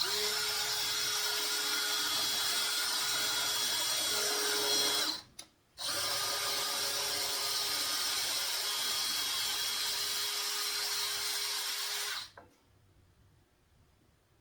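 Electric power drill running steadily at one pitch, in two long runs with a short break about five seconds in, then stopping about twelve seconds in; it is being used to set wood screws into a wooden frame.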